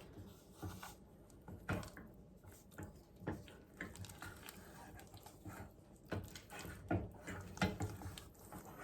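A utensil stirring a thick melted chocolate, butter and cocoa mixture in a pot, with irregular light scrapes and knocks against the pot.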